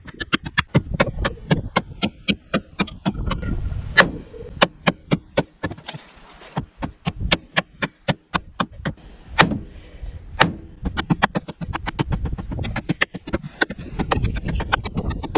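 A small full-tang steel knife chopping into the sheet-metal roof of a VW Golf: a fast run of strikes, several a second, then more scattered, harder blows, the loudest about four, nine and ten seconds in.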